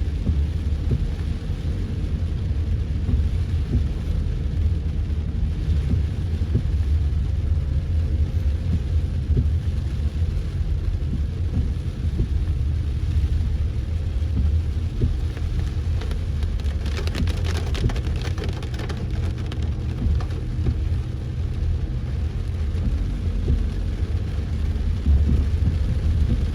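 A car driving through heavy rain: a steady low road-and-engine rumble with the hiss of rain over it. A short run of rapid ticks about two-thirds of the way in.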